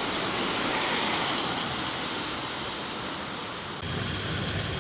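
Steady hiss of rain falling outdoors. Near the end the high hiss thins and a lower rumble comes in.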